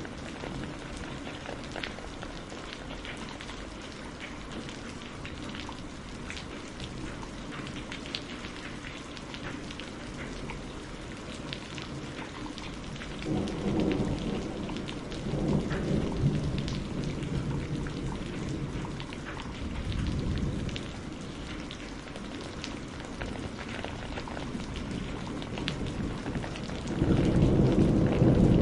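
Steady rain with scattered sharp ticks. Low rolls of thunder come in about halfway through, again a little later, and louder near the end.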